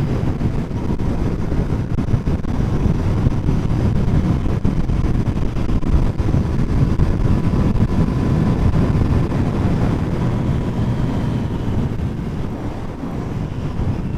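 Wind rushing over a helmet-mounted microphone with the engine and road noise of a Royal Enfield Continental GT 650 motorcycle riding at speed, easing slightly near the end.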